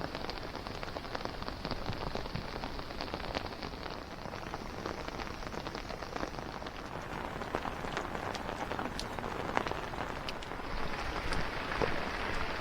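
Steady rain falling, with many separate drops ticking sharply on nearby surfaces; it grows a little heavier near the end.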